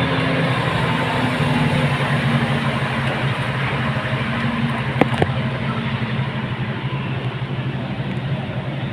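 A motor vehicle's engine running steadily amid street noise, with two sharp clicks close together about five seconds in.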